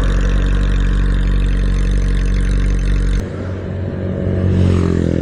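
Motorcycle engine idling steadily. About three seconds in the sound cuts off abruptly to a quieter engine sound, which rises in pitch near the end as the engine revs up.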